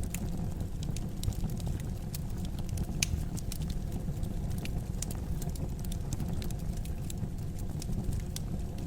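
Wood fire crackling in a fireplace: irregular sharp pops and snaps over a steady low rumble of the flames, with one louder snap about three seconds in.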